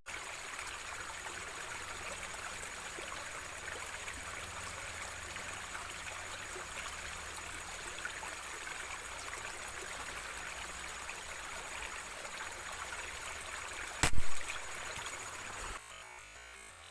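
A steady hiss of outdoor noise, broken about fourteen seconds in by one sharp, loud shot from a PCP air rifle. The hiss cuts off suddenly soon after.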